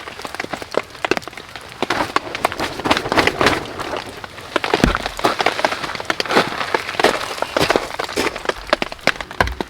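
Rain pattering in many sharp drips, overlaid with crackling and snapping of dry wood that thickens in the middle, and a dull thud about five seconds in.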